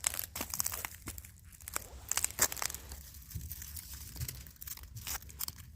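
Irregular crunching and crackling, many small sharp clicks in quick succession, over a low rumble.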